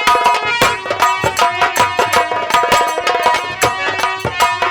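Live Indian folk band music for a nautanki: fast, dense hand-drum strokes under a sustained melodic line.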